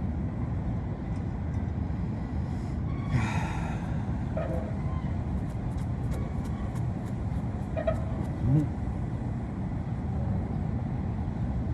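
Steady low rumble of road traffic, with a short louder hiss about three seconds in.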